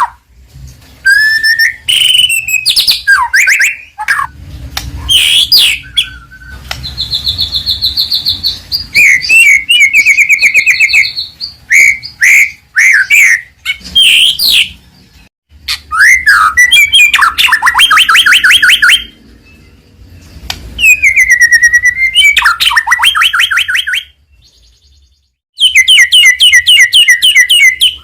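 White-rumped shama (murai batu) singing loudly at close range in varied phrases: slurred whistles, fast trills of repeated notes and rapid chattering runs, with a couple of short pauses.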